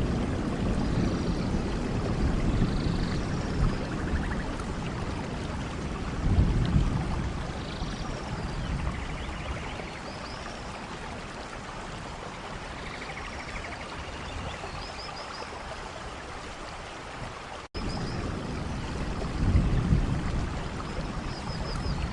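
Steady rain falling in a forest, with faint high bird chirps now and then and a low rumble that swells a few times. The sound cuts out for an instant about four seconds before the end.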